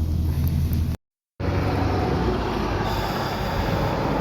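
Ride noise inside a moving vehicle: a steady low hum, then after a short cut, a broad rumbling noise.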